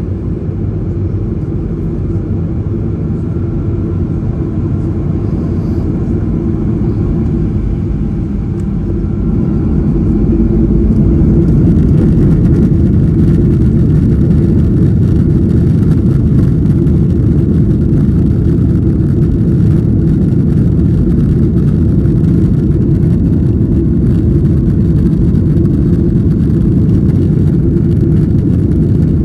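Jet airliner engine and cabin noise heard from a passenger seat: a steady low rumble that grows louder about ten seconds in and then holds level.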